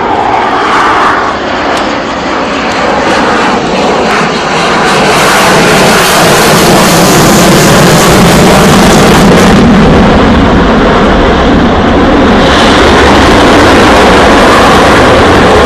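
F-16 fighter jet's engine roaring in flight, swelling louder about four to five seconds in and staying loud.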